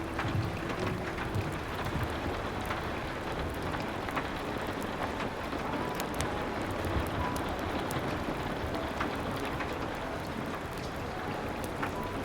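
Steady rain falling, with scattered sharp crackles from a wood fire.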